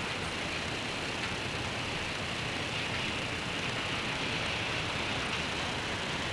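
Rain and passing car traffic blending into one steady, even hiss.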